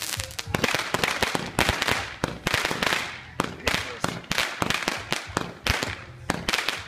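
Small consumer fireworks going off: a dense, irregular run of sharp pops and crackles, several a second, with hissing between them as the sparks burn.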